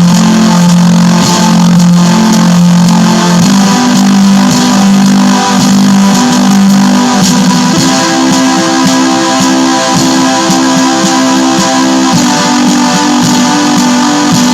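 Black metal music: a distorted electric guitar plays a repeating riff over a dense, loud wash, its notes shifting to a new pitch every few seconds.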